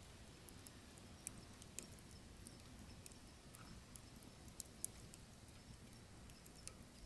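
Firewood burning in a wood stove, crackling with irregular small pops over a low, soft rumble of the flames; the sharpest pop comes near the two-thirds mark.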